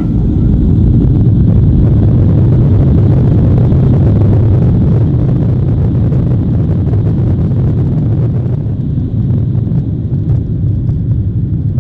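Loud, steady low rumble of a jet airliner's engines and rushing air, heard from inside the cabin. The fainter hiss above the rumble thins out a little past two-thirds of the way through.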